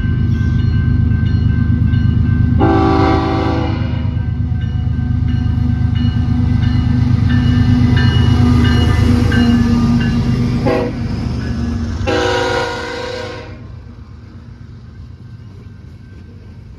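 BNSF diesel freight locomotives rumbling past, with the air horn sounding a blast about three seconds in, a short toot near eleven seconds and another blast around twelve seconds. The rumble drops away sharply near the end.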